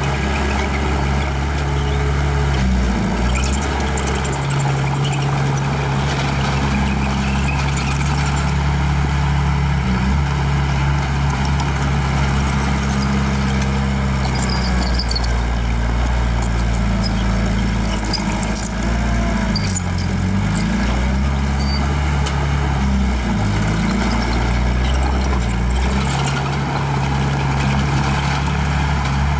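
Old small bulldozer's diesel engine running hard, its engine speed dipping briefly several times as it takes load pushing rock, with light clanking over the top.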